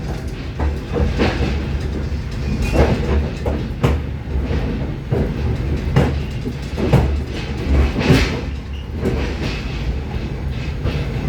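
Moving passenger train heard from inside the carriage: a steady low rumble of the wheels on the rails, broken by irregular knocks and clatter from the car.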